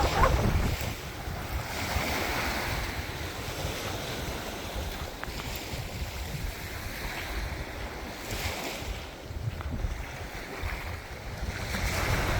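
Mediterranean waves washing onto the shore, the surf swelling and easing about three times. Wind rumbles on the microphone throughout.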